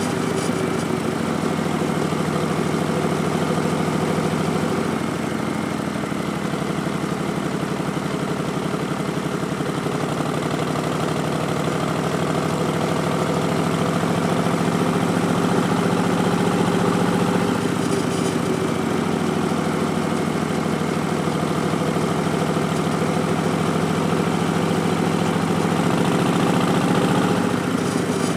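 2019 Harley-Davidson Street Bob's Milwaukee-Eight 107 V-twin running at low, fairly even revs through Vance & Hines Twin Slash slip-on mufflers and an Arlen Ness Big Sucker intake, its stage 1 setup. The pitch dips slightly about five seconds in and shifts again a little around ten and eighteen seconds.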